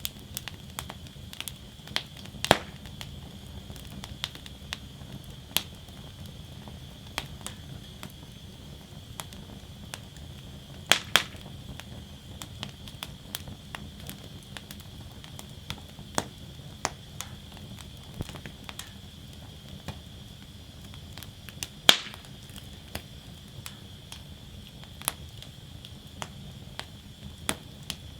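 Wood fire burning in a steel fire basket, crackling with irregular sharp pops over a low steady rumble. A few pops stand out: two close together about eleven seconds in and a loud one about twenty-two seconds in.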